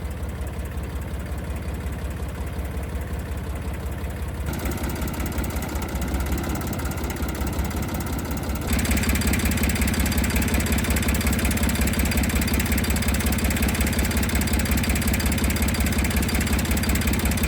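An engine running steadily with an even pulsing beat, its speed stepping up about four seconds in and again about nine seconds in, then holding at the higher speed.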